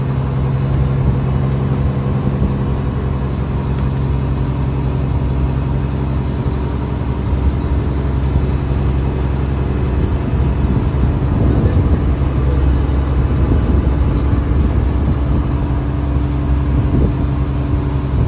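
Fishing trawler's diesel engine running steadily at a constant low hum, with a thin steady high whine above it.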